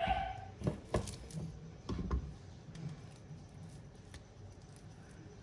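Light kitchen handling sounds while stuffing jalapeño pepper halves with cheese filling: a few sharp taps and clicks of a utensil against a dish, mostly in the first two and a half seconds, then only faint scraping.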